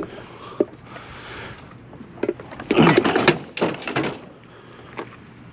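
Scattered knocks, then a burst of clattering about three seconds in, as objects are handled.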